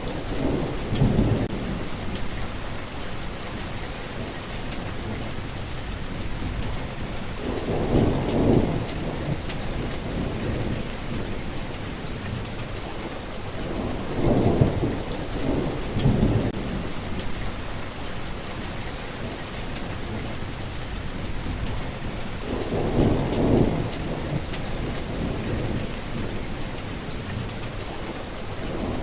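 Steady heavy rain with low rolls of thunder that swell and fade about four times.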